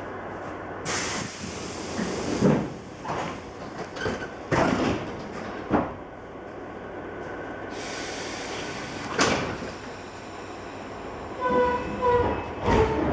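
Train rolling slowly with a steady rumble, its wheels giving irregular heavy knocks over rail joints and points. Two short tonal beeps sound near the end.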